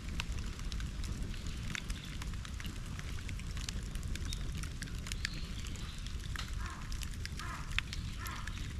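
Bonfire burning steadily with a low rumble and scattered crackles and snaps. From about six and a half seconds in, a few short repeated calls join it.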